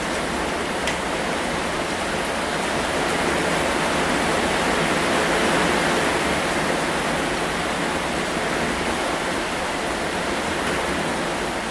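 Steady rain, an even dense hiss that swells a little towards the middle.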